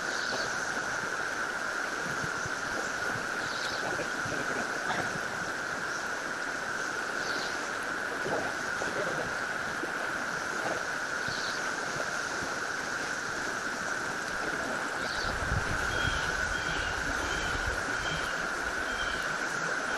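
A steady, unbroken drone of a cicada chorus over the even rush of river water. A low rumble of wind on the microphone comes in briefly about fifteen seconds in, and a few short chirps repeat near the end.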